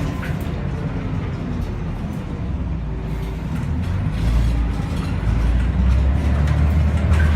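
Scania L113CRL city bus's diesel engine running with a low drone, getting louder from about halfway in.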